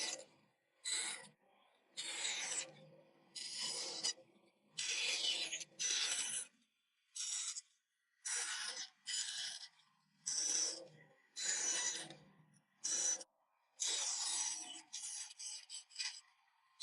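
A blade cutting into a wooden board in a series of separate scraping strokes, each under a second long with short pauses between, about one a second.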